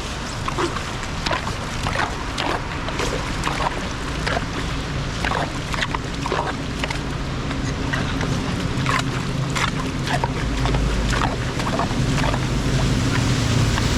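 Rain and floodwater, with many short splashes throughout; a low rumble builds in the last few seconds.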